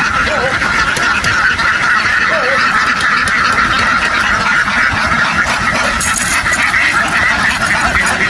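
A large flock of domestic ducks quacking all at once, many voices overlapping into a steady, unbroken din.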